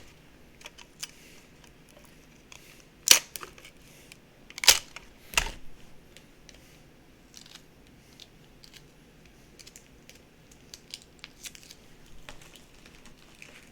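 Desk handling noises from picking up a tape gun and handling small items: three sharp clicks about three, four and a half and five and a half seconds in, among faint taps and rustles.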